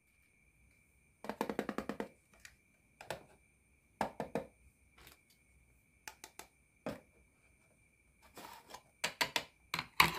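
Hard plastic toy kitchen pieces (a dish rack, a toy cooktop and a pot) being handled and set down, in several short bursts of clattering clicks and knocks.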